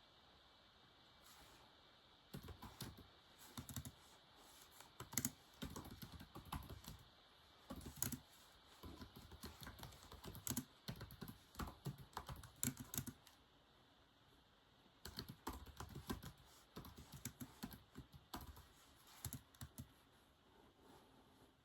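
Typing on a keyboard: quick runs of soft key clicks in bursts, with brief pauses. The clicks start about two seconds in, thin out to a lull around two-thirds of the way, resume, and stop shortly before the end.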